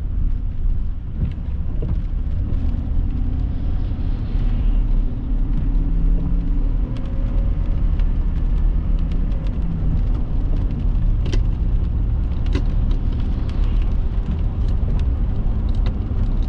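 Steady road rumble of a car driving, heard from inside the cabin, with scattered sharp ticks that become more frequent partway through.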